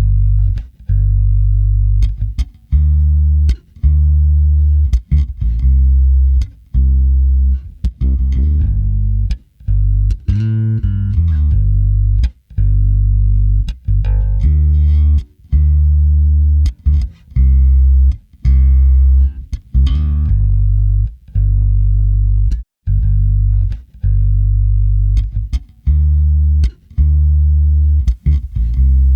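Bass guitar playing a solo line of separate plucked notes, each about a second long with short gaps between them, heavy in the low end.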